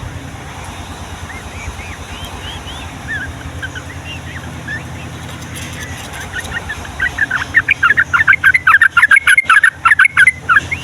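Sooty-headed bulbul singing: scattered short whistled chirps, then about seven seconds in a loud, fast run of chattering notes for about three seconds. A steady low rumble runs underneath.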